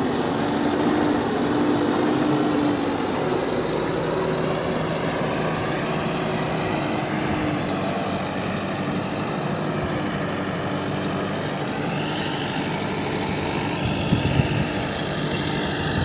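Heavy diesel engine running steadily at a fairly even speed, with a few small knocks near the end.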